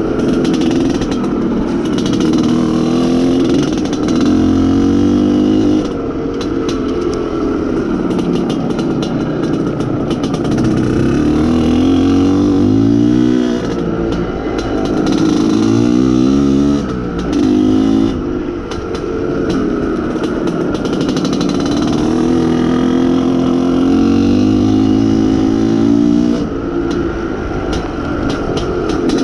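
IZh Planeta Sport's single-cylinder two-stroke engine pulling the motorcycle along, its pitch rising as it accelerates and dropping at gear changes and throttle lifts. The engine is being run in, so it is held short of high revs.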